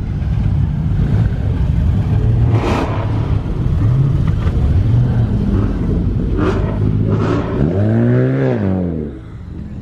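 Car engines running and revving, with short revs about four and five seconds in and a longer, louder rev near the end whose pitch rises and then falls.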